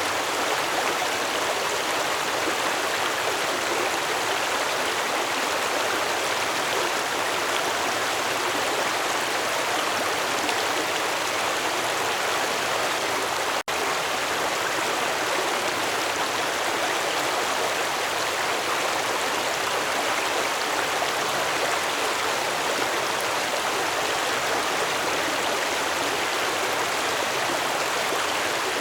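Stream water flowing in a steady, even rush, with a split-second dropout about halfway through.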